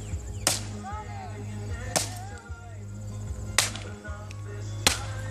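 Four sharp cracks at an even pace, about one and a half seconds apart, over a steady low hum.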